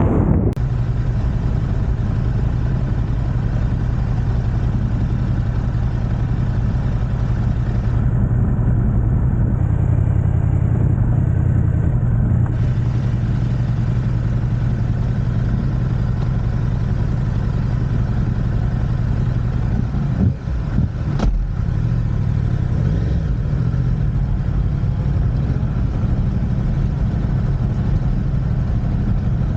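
Yamaha YZF-R1's crossplane inline-four idling steadily through an Akrapovic exhaust, with a brief dip and a click about two-thirds of the way through.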